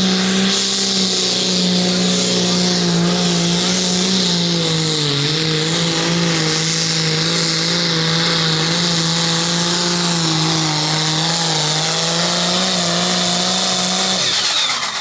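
Light limited super stock pulling tractor's engine running flat out under load down the track, its pitch sagging and recovering slightly, then cutting off suddenly about fourteen seconds in as the run ends.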